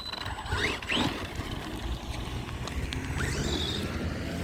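Brushless electric RC truck motor whining up in short revs as the truck drives and spins its tyres, over a steady rumble of the drivetrain and wind on the microphone. The motor is freshly repaired and running hard.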